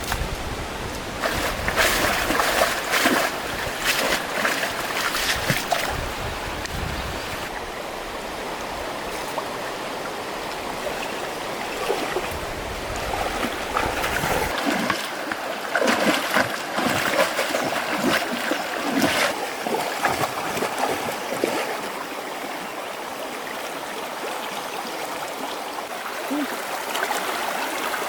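Flowing stream water, with two spells of irregular splashing, one near the start and one about halfway through.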